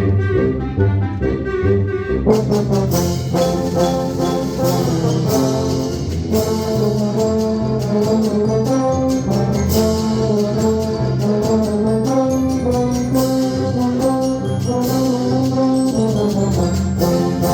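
A band plays a lively galop led by brass, with trombone and trumpet lines over a steady low bass. Sharp percussion strokes join about two seconds in.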